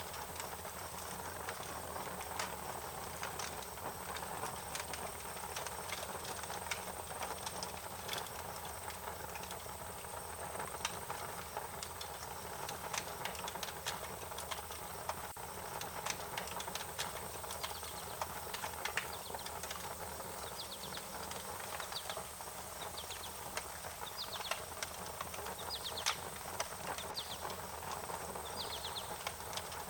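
Wood fire crackling, with irregular sharp pops over a steady hiss. From about two-thirds of the way through, runs of short high chirps come in over the crackle.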